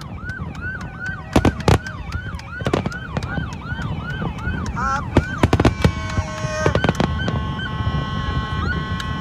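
Fireworks going off in a rapid series of sharp bangs. Under them a siren-like whoop rises and falls about three times a second, giving way about halfway through to several steady high whistling tones.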